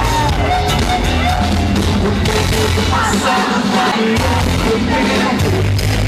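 Live band playing loud amplified pop-rock, with wavering voices singing over it.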